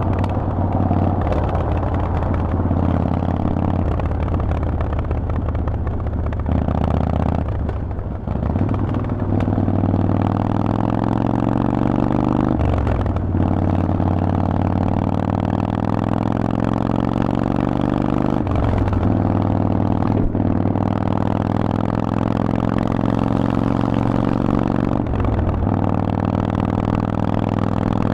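Harley-Davidson Forty-Eight's air-cooled 1200 cc V-twin running through a Vance & Hines aftermarket exhaust while riding. The exhaust note climbs steadily, with a short break and drop in pitch a few times, as at gear changes.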